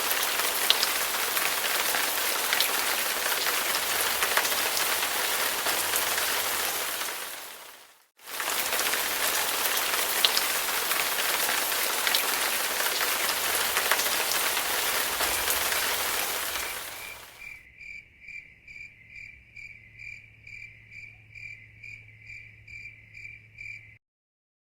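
Steady heavy rain hiss that fades out about eight seconds in and then starts again. Around seventeen seconds in it gives way to crickets chirping in an even pulse, nearly three chirps a second, which stops abruptly near the end.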